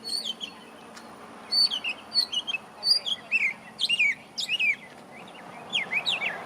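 A songbird singing in short bursts of quick chirps and slurred whistles, with brief pauses between phrases; the walkers take it for a northern mockingbird.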